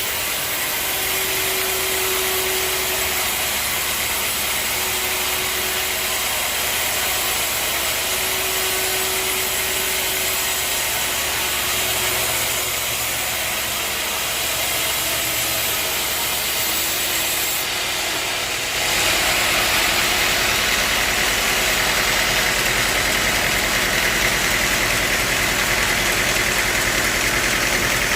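Sawmill machinery running steadily, a dense mechanical noise with a faint intermittent whine. About two-thirds of the way through it abruptly gets louder and heavier.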